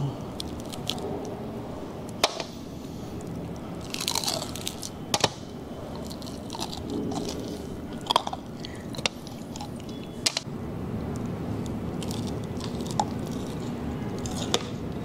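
Close-miked chewing and biting on crispy pata, deep-fried pork leg, with a scatter of sharp crunches from the crisp skin.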